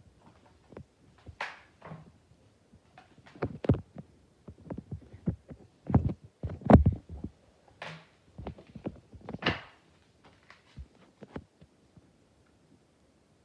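Irregular knocks and clicks, some sharp and some dull, with three short swishing rustles among them; they thin out near the end.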